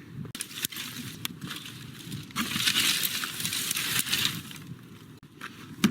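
A camcorder box being handled and opened by hand: crackling and rustling with scattered sharp clicks, louder for about two seconds in the middle.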